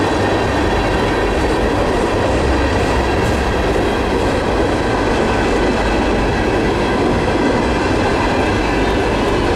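Loaded Herzog ballast cars of a freight train rolling past, with steady wheel-on-rail noise.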